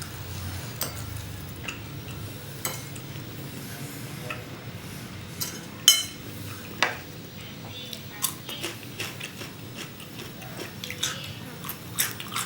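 Eating utensils clicking and scraping against dishes during a meal, in scattered sharp taps, the loudest about six seconds in.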